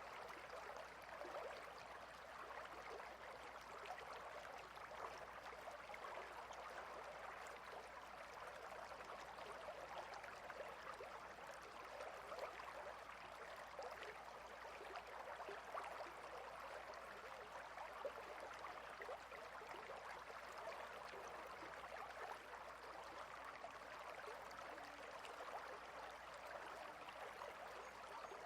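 Clear river flowing over and between stones, a steady, faint rush of running water with fine splashing detail.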